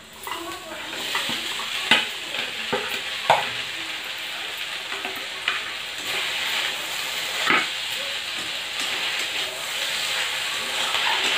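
Taro root (arbi) pieces sizzling in oil and spice paste in a metal kadhai, stirred with a metal spatula that scrapes and knocks against the pan a few times over the steady sizzle.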